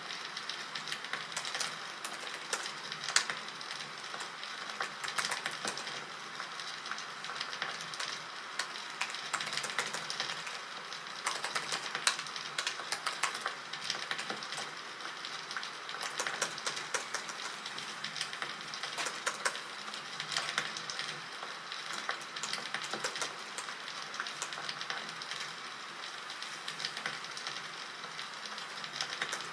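Recorded campfire sound effect: a wood fire crackling, with irregular sharp pops over a steady hiss.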